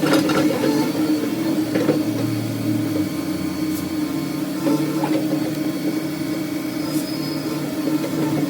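Heavy machinery engine running steadily at demolition work, with a few faint knocks through it.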